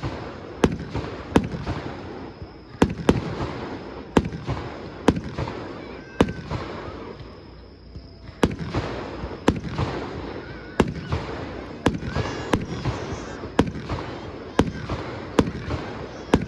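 Aerial fireworks shells bursting in quick, irregular succession, sharp bangs each trailing into a rolling echo, with a brief lull about halfway through.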